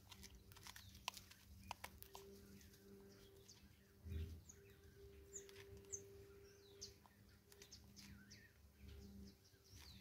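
Faint, short chirps of wild birds, with scattered small clicks and a soft low thump about four seconds in.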